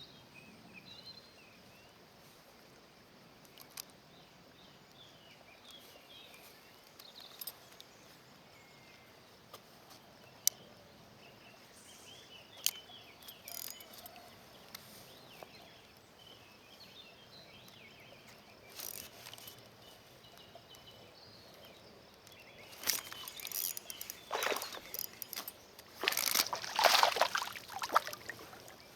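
Faint birdsong, short chirps scattered throughout, with an occasional sharp click. Near the end comes a louder run of knocks and rustling that stops and starts for several seconds.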